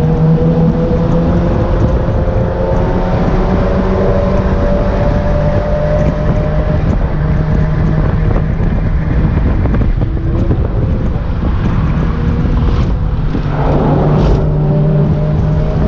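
Mazda MX-5 NA's 1.6-litre four-cylinder engine with a cat-back exhaust running under load at track speed, its note rising slowly as the car accelerates, with wind rush in the open-top cabin. Near the end the car slows and there is a brief burst of rougher noise.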